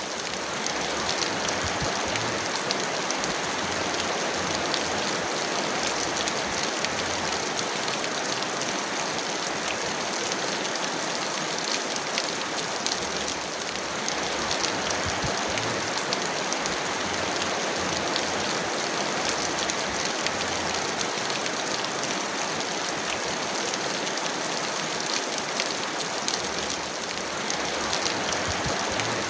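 Heavy rain falling steadily: a dense, even hiss of rain with individual drops pattering through it.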